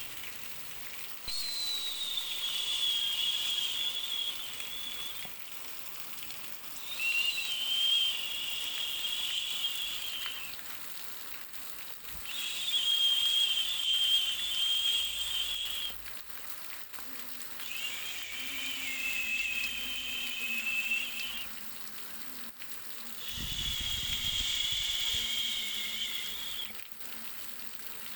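Soothing noise track for babies: a high whistling tone over a hiss, coming in repeating waves about 3 to 4 seconds long with short dips between, about five times.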